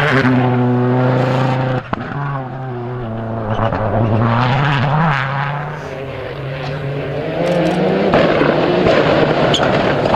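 Rally car engine running hard at high revs, with a brief break in the sound about two seconds in as it changes gear, then the pitch climbing and falling as it accelerates and lifts.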